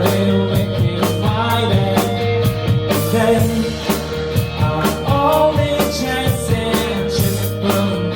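Rock band playing: a drum kit keeps a steady beat under bass and electric guitar.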